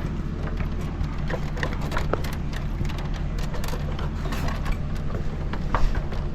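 An engine running at a steady idle, a low even drone, with scattered light clicks and knocks over it.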